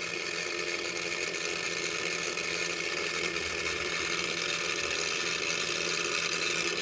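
Battery-powered grinder's electric motor running with a steady whir, rising slightly in level. The grinder is faulty, smoking and smelling of burning, and not running as it should.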